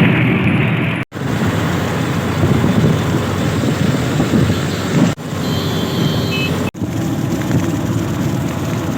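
Steady rumbling noise of a moving vehicle, broken off abruptly several times by cuts. A brief high tone sounds a little past the middle.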